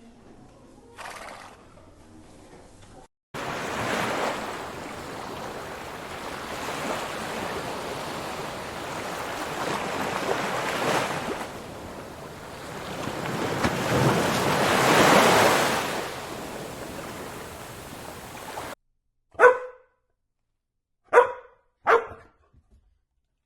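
A rushing noise that swells and fades about three times, then cuts off suddenly; near the end, three short, sharp animal calls.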